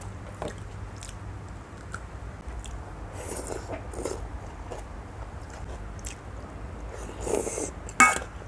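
Someone biting and chewing crunchy food close to the microphone, in irregular bursts, with a sharp click about eight seconds in.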